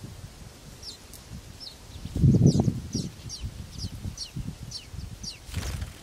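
A small bird chirping: a run of short, high, falling chirps, about two or three a second. A loud low rustle comes about two seconds in, and a brief rustle near the end.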